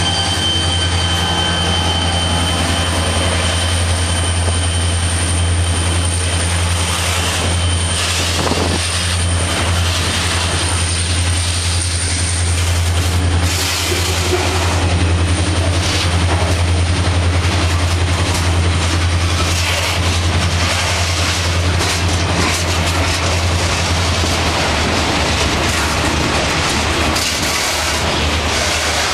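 CSX freight train rolling slowly past on a curve: wheels running on the rails over a steady low hum. A thin, high-pitched flange squeal fades out in the first several seconds.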